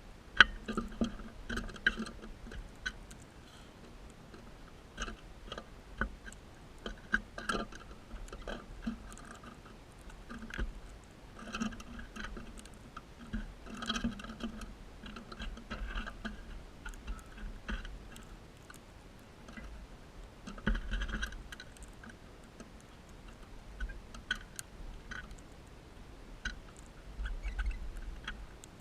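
Crimson rosella feeding: irregular small clicks and crunches, like seed husks being cracked in the bill, coming in short clusters every few seconds.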